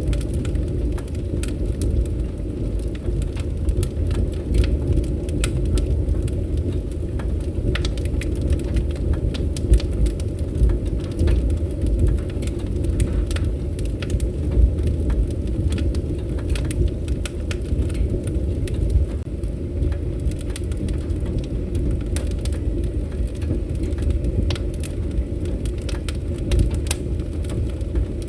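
Wood campfire burning, with frequent irregular crackles and pops over a steady low rumble.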